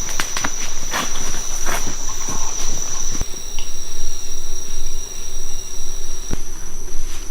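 Rainforest insects droning in one steady, high-pitched whine, with a few footfalls in the mud during the first two seconds.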